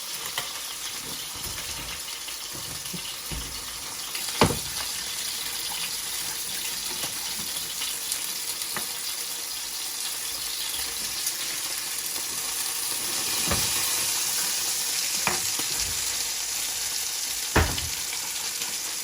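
Mushroom sauce of butter and milk sizzling in a frying pan with a steady hiss, broken by a few sharp knocks, the loudest about four seconds in and near the end.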